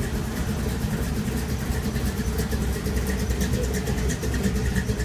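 Engines of several vintage woodie station wagons idling and running together in a steady low rumble.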